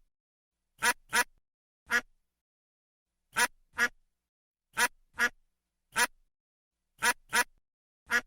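A duck quacking: about eleven short, sharp quacks, several in quick pairs, with silent gaps between them.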